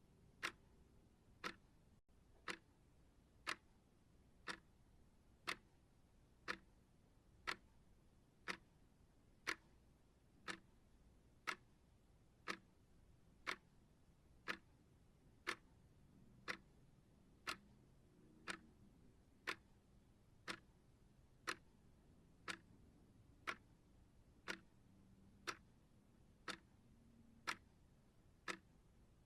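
A clock-style timer ticking steadily, one sharp tick each second.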